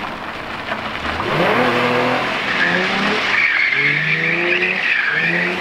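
Nissan 240SX drift car being drifted: the engine revs climb and drop several times from about a second in. The tires squeal from about halfway through, while the car slides.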